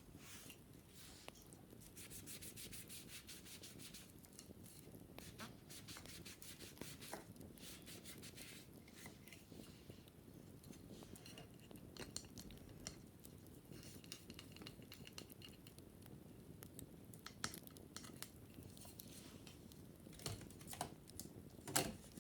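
Brushing and scratching on a wicker basket: a run of quick, small clicks and rubbing strokes against the woven strands, with one sharper tap just before the end.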